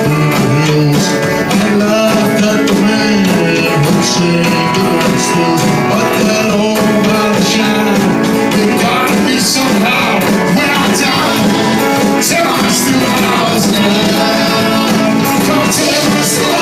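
Live band playing a country rock instrumental passage, with guitar over a steady beat.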